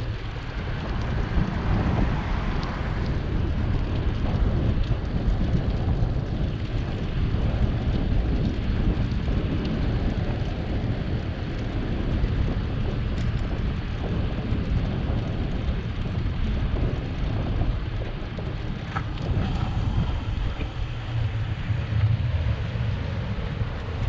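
Wind buffeting the microphone of a bike-mounted camera while riding: a steady low rumble that swells and eases.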